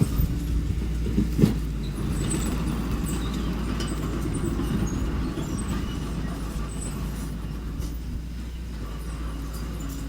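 Engine of a small construction machine running steadily with a low rumble, with a sharp metal knock about one and a half seconds in.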